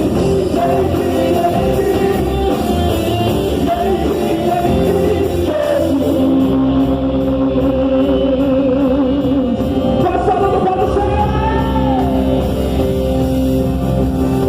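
Live worship band playing a rock-style praise song, with a voice singing over steady accompaniment.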